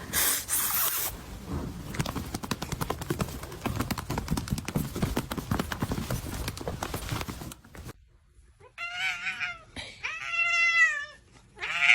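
About eight seconds of busy rustling and rapid clicking, then after a short pause a domestic cat meows three times, long meows that bend in pitch.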